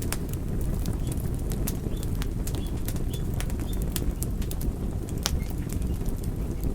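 Wood logs burning in a fireplace: a steady low rumble of the flames with frequent irregular sharp crackles and pops, one louder pop about five seconds in.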